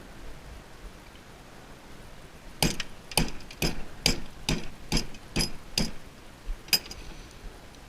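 Hammer striking metal scrap: eight quick blows, about two a second, starting a few seconds in, then one more a second later. Each blow has a brief metallic ring.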